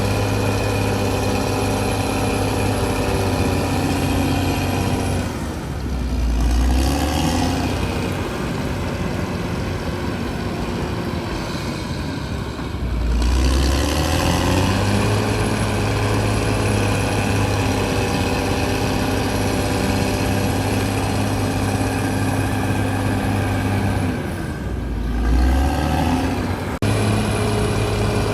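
Bulldozer's diesel engine running steadily, its note dropping lower for a moment three times, about six, thirteen and twenty-five seconds in.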